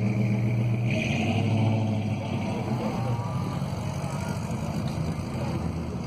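An engine running steadily at low revs, its pitch shifting slightly about a second in.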